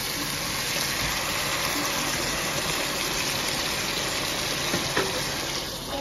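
Sliced onions and tomato pasta sauce sizzling steadily in a hot oiled pan as the sauce is stirred in with a wooden spoon.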